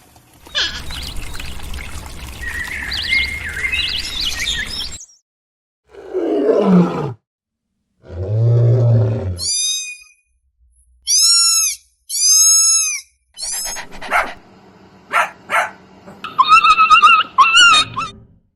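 A run of separate animal calls cut one after another: a noisy stretch with chirping, a single call that falls in pitch, a low call, then a series of high arched bird-like calls and sharp clicks with warbling at the end.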